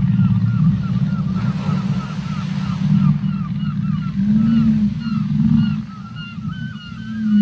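Underwater whale calls: runs of short, quickly repeated chirps, about four a second, over a steady deep low rumble, with a couple of short low moans rising out of the rumble in the second half.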